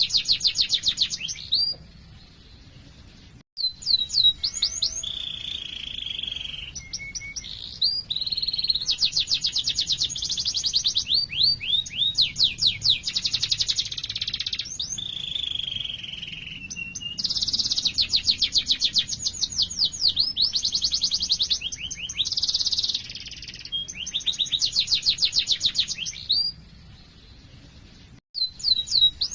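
Domestic canary singing a long, loud song of fast rolling trills, rapid chirps and held whistled notes, with two short breaks, one a few seconds in and one near the end.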